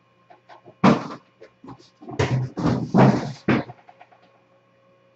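Cardboard product boxes being handled and set down on a table. There is a sharp knock about a second in, then a run of thuds and scuffs over the next couple of seconds.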